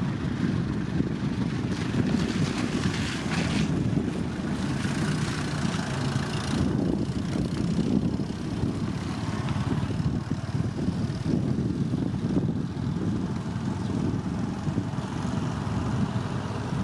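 Motor grader's diesel engine running steadily with a deep rumble, with a brief rushing hiss about two to four seconds in.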